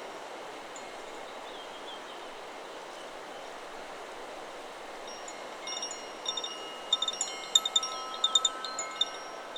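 Chakra Chimes 'Solar Plexus' wind chime stirred by the wind, ringing in a quick flurry of many strikes from a little past the middle to near the end, over a steady rustle of wind in the trees.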